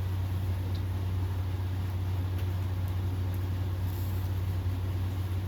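A steady low hum with a faint even hiss above it, unchanging throughout, with a few faint light ticks.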